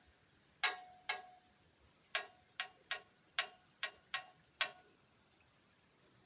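Footsteps on a hard trail: about nine sharp steps at walking pace, roughly two a second, which stop about three-quarters of the way through.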